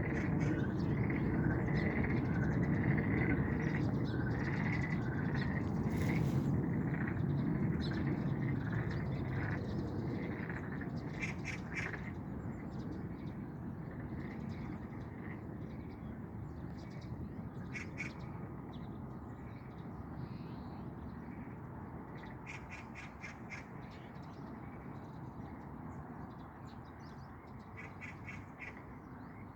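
Frogs calling in a chorus, with Oriental magpies breaking in several times with short, rapid chattering bursts; the chorus is loudest at first and slowly fades.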